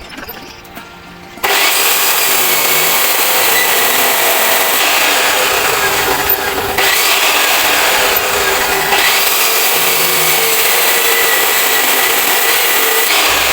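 A power tool starts up about a second and a half in and runs loudly and steadily, cutting or abrading material with a harsh, hissing noise.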